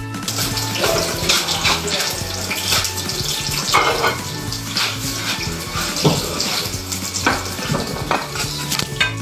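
Breaded cauliflower florets frying in hot oil in a pan: a steady hiss with crackling pops and spatters throughout.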